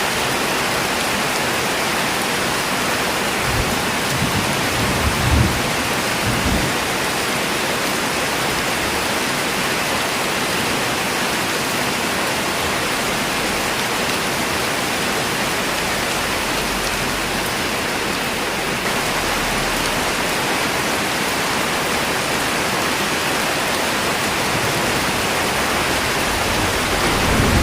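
Steady rain falling, an even hiss of many drops. Low rumbles rise briefly a few seconds in and again near the end.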